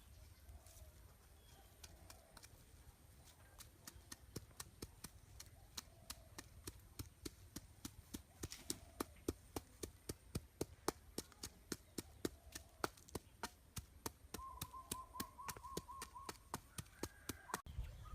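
A steady run of sharp chopping taps, about three to four a second, starting about four seconds in and stopping shortly before the end. A short warbling bird call sounds near the end.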